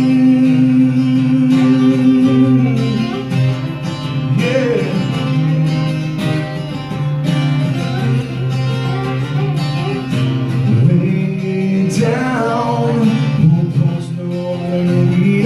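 Acoustic guitar playing a break between sung lines of a live acoustic rock song, with a long held note at the start and a few brief vocal notes over it.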